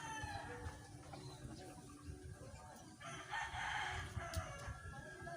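Rooster crowing, faint, with a short hiss of noise partway through.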